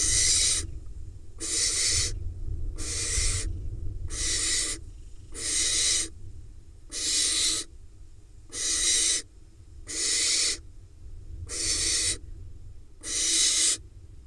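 Barn owl nestling begging for food with a string of hissing, snore-like calls, about ten of them, each under a second long and repeating about every one and a half seconds.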